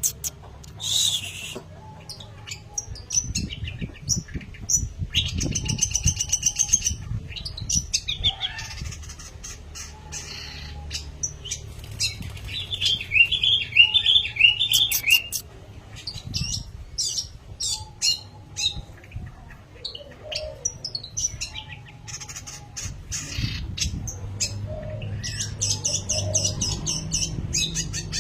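Long-tailed shrike (pentet) singing a varied, chattering song of short sharp notes, with a fast trill about halfway through, over a low steady rumble.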